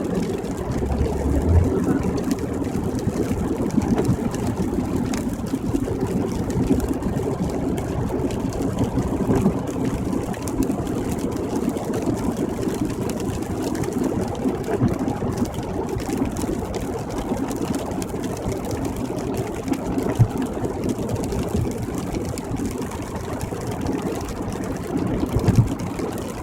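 Steady road noise inside a car cruising on the highway, its engine and tyres making an even rumble, with a few faint low thumps.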